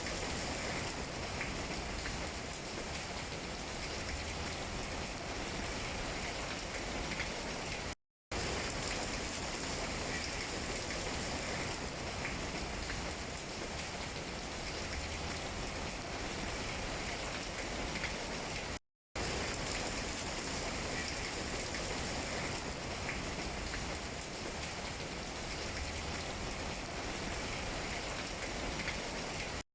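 Steady rain falling on tree leaves, an even hiss with faint scattered drop taps. It cuts out to silence for a split second twice, about eight seconds in and again near the twenty-second mark.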